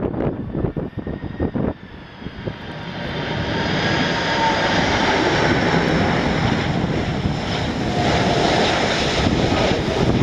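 Wind buffeting the microphone in gusts, then from about two seconds in the four jet engines of a Boeing 747-400F on final approach grow louder and hold a steady, loud engine noise with several high whining fan tones.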